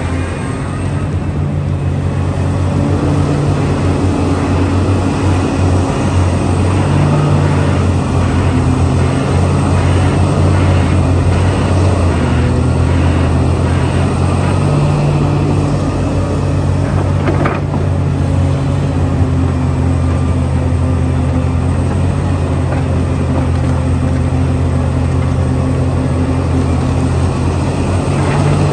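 Heavy machine's engine running steadily, a low drone holding nearly the same pitch throughout, with one sharp click a little past halfway.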